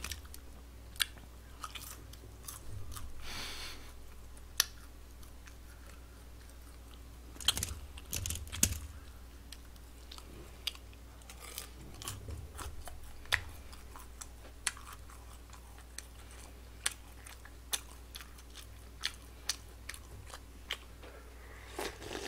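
A person chewing and biting food close to a microphone, with many scattered sharp clicks and a few short crunchy bursts, while eating Korean-Chinese takeout. Near the end comes a short sip of jjamppong broth from a bowl.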